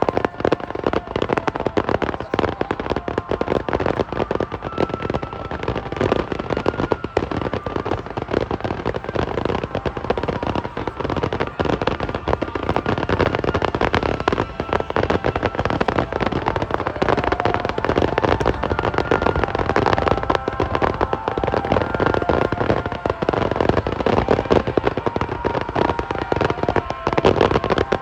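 Aerial fireworks going off in a dense, rapid barrage of bangs and crackles that overlap without a break.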